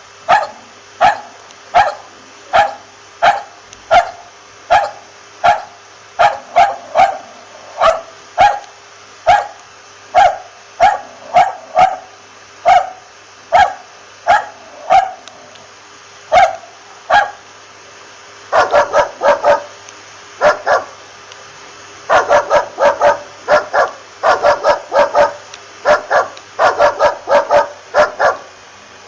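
A dog barking over and over, about one to two barks a second, then after a brief pause breaking into quicker runs of several barks a second.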